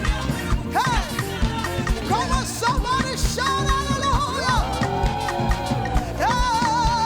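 Live church praise-band music: a steady drum beat under a lead melody with held, wavering notes.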